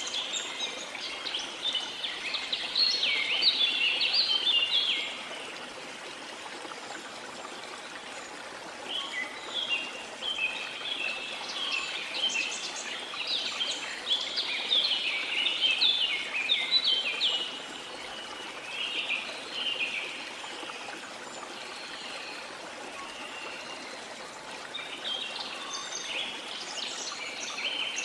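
Small songbirds chirping and twittering in dense bursts: a spell in the first five seconds, a longer one from about nine to twenty seconds, and more near the end. Beneath them runs a steady rush of water.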